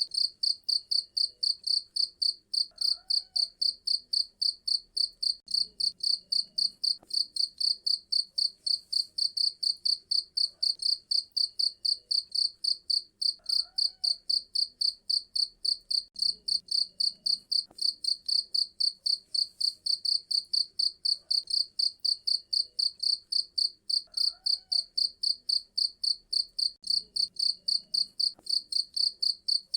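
A cricket chirping steadily in a fast, even rhythm of about three shrill chirps a second.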